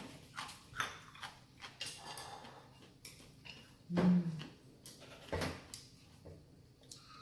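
Close-up eating sounds of someone chewing and slurping ramen noodles: a run of small wet clicks and smacks, with a brief low hum about four seconds in.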